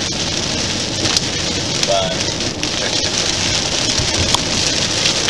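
Rain hitting a moving car's roof and windshield over steady road noise, heard inside the cabin, with a few sharp drop-like ticks.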